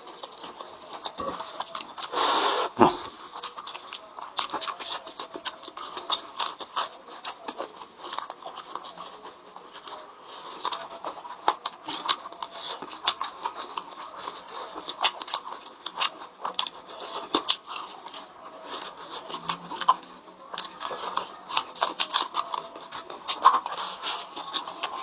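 Close-up eating sounds: a person chewing and crunching chicken, with many small wet clicks and smacks. A louder noisy burst comes about two seconds in.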